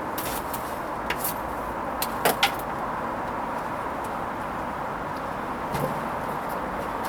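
Hoover Vision HVP16 washing machine running its Silks 30 wash cycle: a steady whooshing hum with a few light knocks and clicks.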